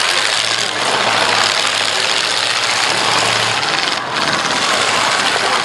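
Engine of a full-size demolition derby car running steadily, heard loud from on board, with a harsh rushing noise over it and a brief dip about four seconds in.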